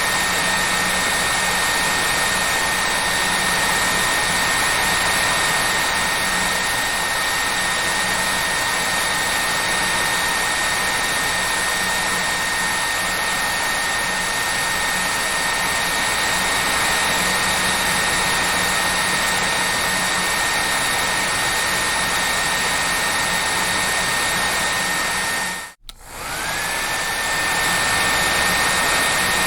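Hair dryer running steadily: an even rushing airflow with a constant high motor whine. About 26 s in it cuts out for a moment, then comes back with the whine rising back up to pitch.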